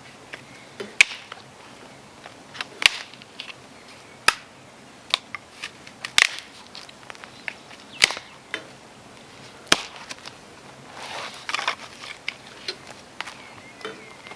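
A series of sharp wooden cracks, one every second or two, with a rougher spell of crackling about eleven seconds in.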